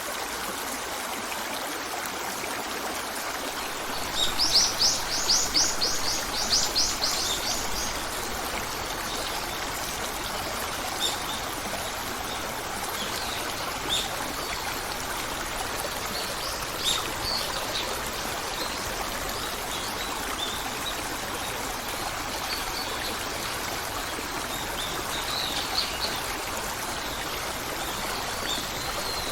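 A stream running steadily, with a bird singing two rapid trills of high notes about four seconds in, then scattered short chirps.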